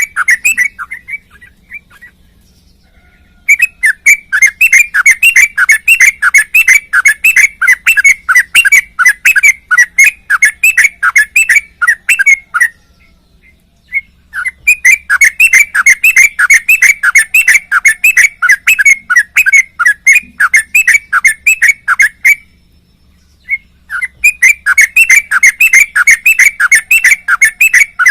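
Sooty-headed bulbul (trucuk) singing in long, fast runs of rapidly repeated notes, three bouts broken by short pauses.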